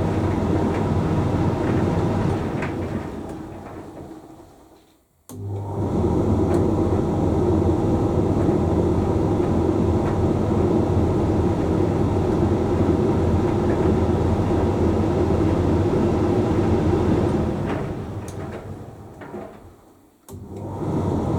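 Hoover Link X Care HLX C10DRGR condenser tumble dryer running mid-cycle with a steady hum. Twice, about five seconds in and again near the end, it winds down over a couple of seconds to a moment of near silence, then starts straight back up at full level.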